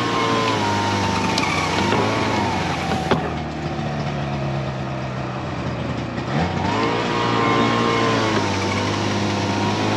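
A small petrol engine running steadily. About six seconds in it revs up to a higher pitch and holds there. A single click is heard near the three-second mark.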